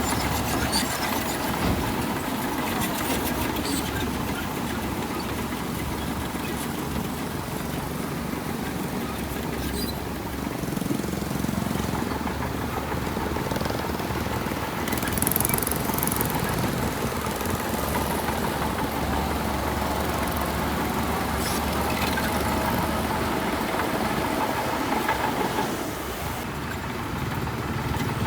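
Heavy diesel earthmoving machinery running steadily, with a brief high hiss or clank partway through.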